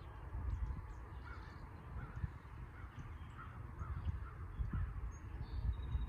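Birds calling: a run of short repeated calls about half a second apart, with faint higher chirps and a low rumble underneath.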